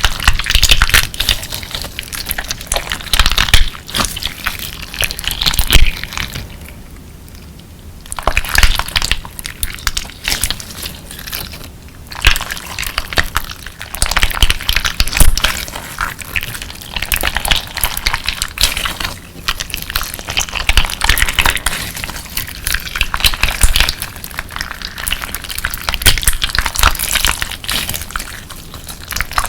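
Clear slime mixed with colourful crystal pieces being squeezed and kneaded by hand, giving dense wet crackling and crunching with many small clicks. It goes quiet for about a second and a half partway through, then the crunching resumes.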